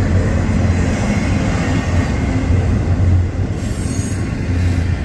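Freight cars of a CSX intermodal train rolling past slowly on the rails: a steady low rumble of wheels on track, with a faint thin squeal from the wheels.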